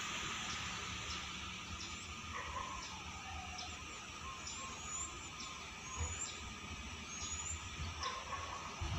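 Birds calling, a short rising chirp repeated about once a second, with wavering whistled notes a couple of seconds in. Underneath is a steady low rumble.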